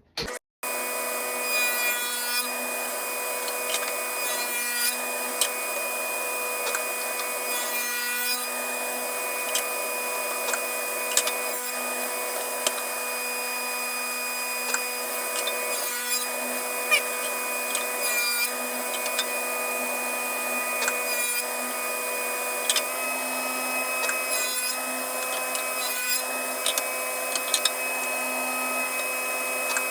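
Table saw running steadily while a shelf groove is cut in repeated narrow passes instead of with a dado blade, the blade cutting into the wood about every two to three seconds.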